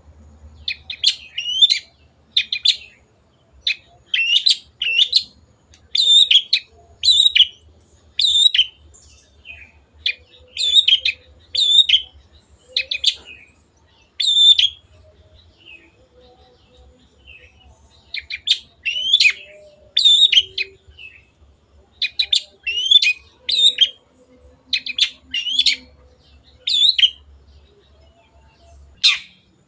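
Long-tailed shrike (cendet) singing: clusters of short, sharp, chirping notes repeated about once a second, with a couple of brief pauses.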